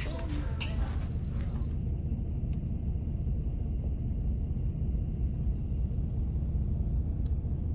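A steady low rumble. For about the first second and a half a rapid train of faint, high-pitched pips runs over it, then stops.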